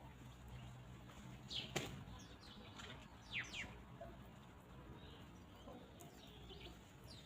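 Faint outdoor farm ambience with small birds giving short, high chirps that sweep downward, a few around two to three seconds in and more near the end. There is a single sharp click a little under two seconds in.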